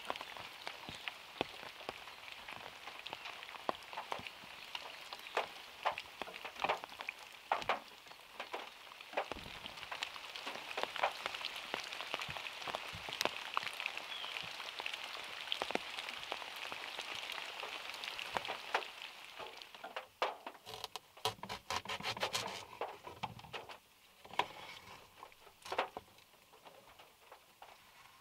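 Rain falling on a small car's roof, a steady hiss with many separate drops from the overhanging trees ticking on the metal. About two-thirds of the way through the hiss thins out, leaving scattered, louder drips.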